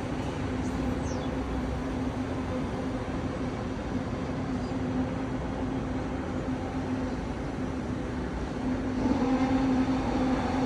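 Heavy crane engine running steadily with a constant low hum, getting louder about nine seconds in.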